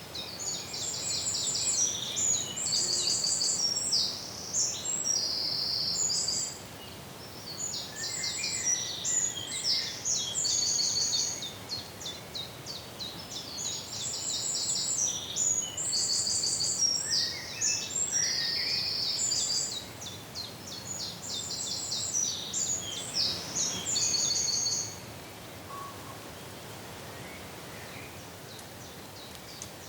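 A songbird singing four long bouts of fast, high-pitched trills and repeated notes, which stop a few seconds before the end.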